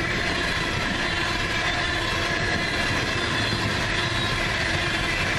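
Freight train of loaded coal hopper cars rolling past at about 50 mph: steady wheel-on-rail noise with some clickety-clack.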